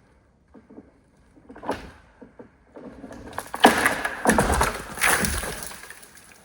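Light scattered knocks, then a burst of close rustling and crunching with sharp clicks from about three to five and a half seconds in.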